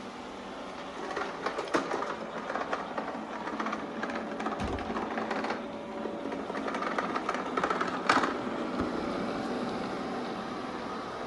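Shark Ion Robot RV750NL robot vacuum running: a steady motor and brush hum with irregular rattling and clicks, the sharpest about eight seconds in.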